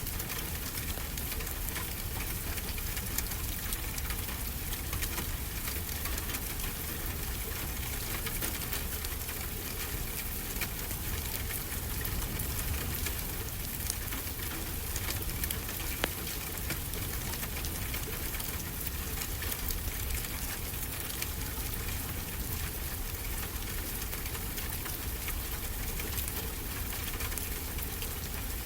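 Steady rain falling, with a wood fire crackling in a fireplace: irregular sharp pops over an even rushing hiss.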